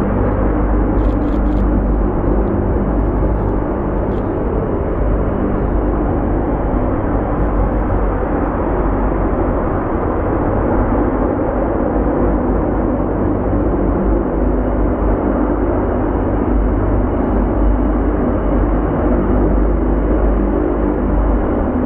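Jet airliner engine noise, steady and loud.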